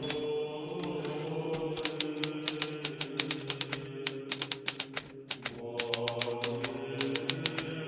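Hermes Baby portable typewriter being typed on: keys striking in quick runs of several clicks a second, with a short lull about five seconds in. A brief high ringing tone sounds right at the start. A steady, chant-like music drone plays underneath.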